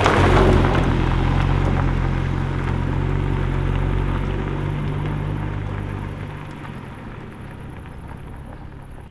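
Sports car engine holding steady revs with a deep, even note. The note fades away over the last few seconds as the car moves off.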